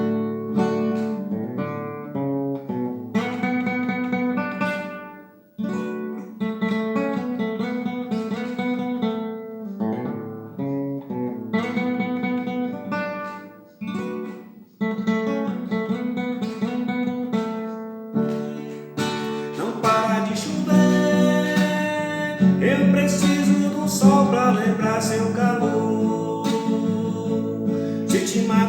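Instrumental song intro led by acoustic guitar playing picked notes, with brief pauses between phrases; about two-thirds of the way in, the accompaniment fills out and gets fuller and louder.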